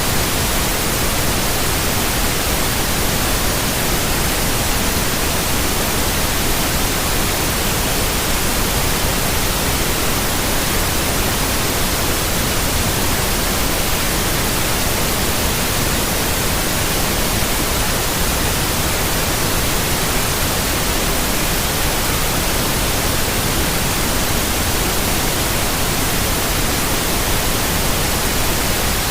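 White noise: a steady, even hiss spread across all pitches, unchanging in level.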